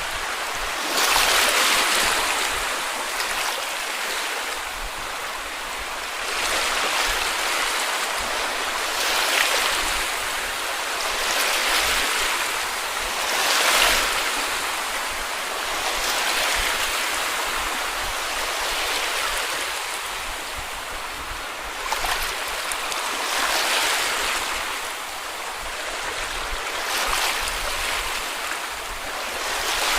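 Small sea waves washing onto a beach, each swell of surf building and receding every two to three seconds.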